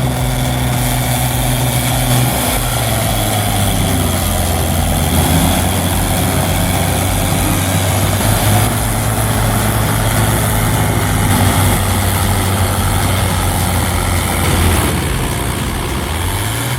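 Heavy machine's engine running steadily with a low, even hum.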